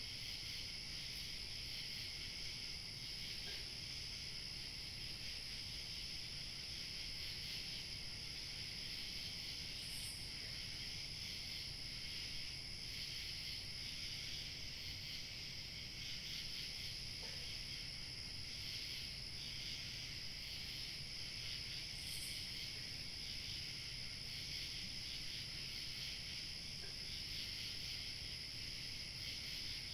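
Crickets chirping in a steady, continuous high-pitched chorus, with a faint low rumble of light wind beneath. A single brighter, higher chirp stands out about ten seconds in and again about twenty-two seconds in.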